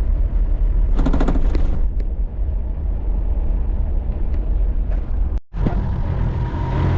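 Toyota Land Cruiser on the move: a steady low rumble of engine and road noise, with a short rapid rattle about a second in. The sound cuts out for a moment about five seconds in, then the rumble resumes.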